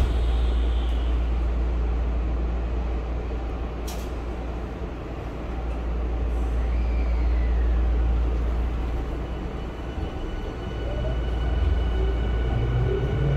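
Running sound inside a Tokyu 5000 series electric train: a steady deep rumble of wheels on rail that swells and eases, with a sharp click at the start and another about four seconds in. Near the end the traction motors' whine starts and rises in pitch as the train picks up speed.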